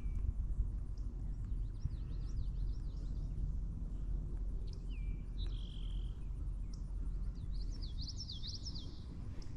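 Songbirds calling: runs of quick up-and-down chirps, a short held whistle and a few brief falling notes, over a steady low rumble of outdoor noise.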